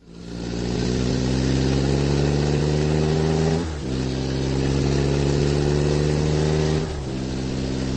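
Car engine accelerating: the engine note starts up, climbs slowly, and dips briefly twice, about three seconds apart, as the car shifts up through the gears.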